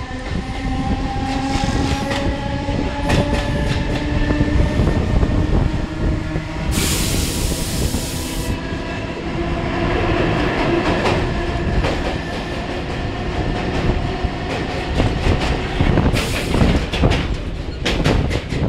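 DC EMU suburban local train running, heard from its open doorway: the wheels clatter over rail joints, and a whine slowly shifts in pitch in the first half. A hiss lasts about two seconds some seven seconds in, and the clatter grows denser and sharper near the end.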